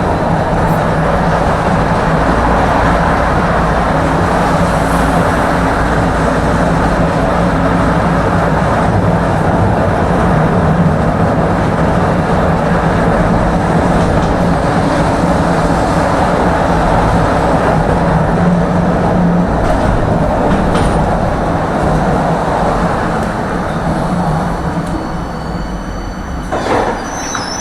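Tram running along its tracks between stops: steady wheel-and-rail rumble with a steady motor hum, easing off in the last few seconds as the tram slows for the next stop.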